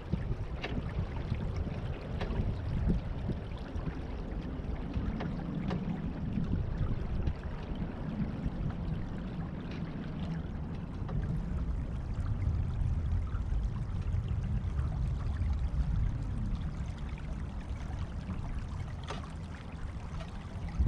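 Water washing and gurgling along the hull of a Beneteau First 20 sailboat under way, steady throughout, with a low fluctuating rumble of wind on the microphone.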